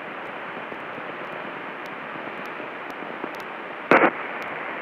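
Steady radio hiss in the headset audio during the pause between repeats of the ATIS broadcast, with one short louder burst about four seconds in.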